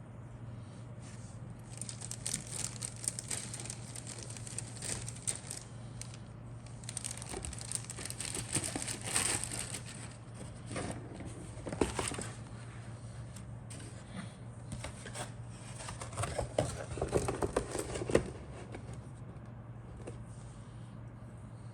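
Plastic packaging crinkling and rustling in irregular bursts as it is handled, with a couple of sharper clicks about twelve and eighteen seconds in, over a steady low hum.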